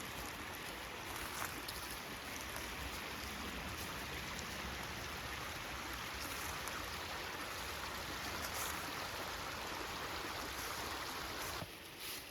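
Creek water running steadily, a continuous rushing babble. It drops suddenly to a quieter level near the end.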